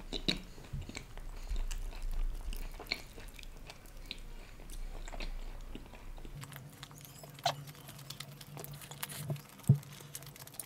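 A person chewing a mouthful of food close to the microphone, with wet smacks and clicks scattered throughout.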